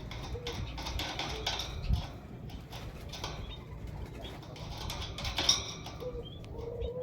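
Small cage birds, a female canary and a male white-headed munia, with faint high chirps and scattered small clicks and rustles. There are a few short low coo-like notes, one just after the start and a longer run near the end.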